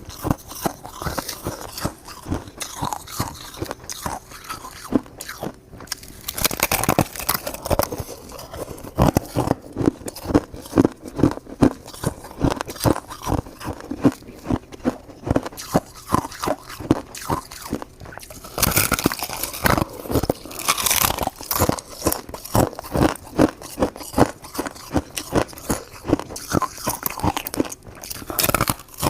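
Close-up chewing and crunching of frozen purple crystal shaved ice, a continuous stream of rapid icy crackles, with louder crunchy bites about 7, 19 and 21 seconds in.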